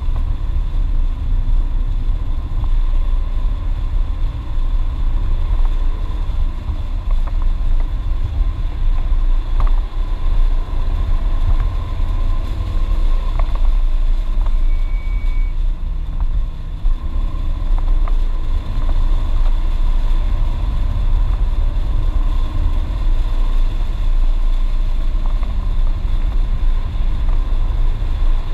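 BMW E36 328is's inline-six engine running hard on track, heard from inside the cabin under a heavy rumble of road and wind noise; its pitch rises and falls with the revs.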